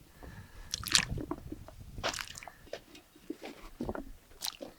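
Irregular crunching and squishing of food, a few short crackly bites or squeezes at uneven intervals.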